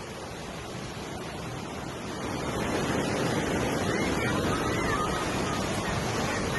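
Steady rush of floodwater, growing louder about two seconds in.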